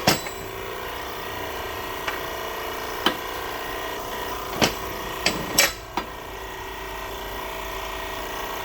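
Keyway broach being forced through a pulley bore in a hydraulic press: a steady machine hum with a series of sharp cracks and snaps as the broach teeth cut, the loudest right at the start and a longer grinding crack about five and a half seconds in.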